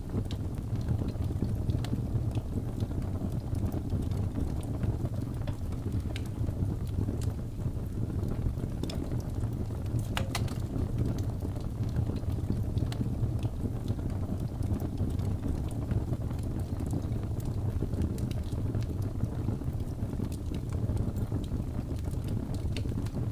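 Wood fire burning with a steady low rush and scattered small crackles and pops, one sharper pop about ten seconds in.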